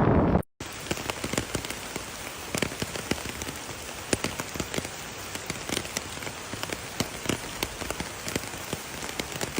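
Steady patter of rain on a surface: an even hiss dotted with many irregular sharp drip ticks. A loud rushing noise cuts off about half a second in, before the patter starts.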